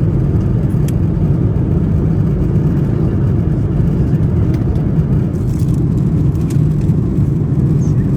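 Steady low rumble of cabin noise inside a Lufthansa Airbus A340-600 airliner in flight, with a few faint ticks.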